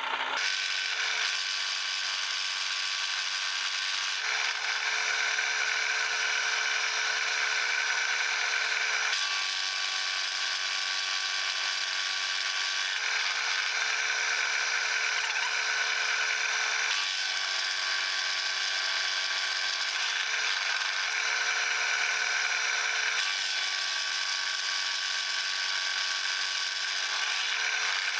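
A metalworking machine tool running steadily while cutting a cold rolled steel bar: a continuous motor whine over cutting noise, with the whine's pitch shifting every few seconds.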